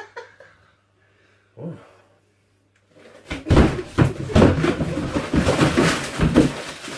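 A faint low hum for about three seconds, then loud, irregular knocking and rustling for the rest.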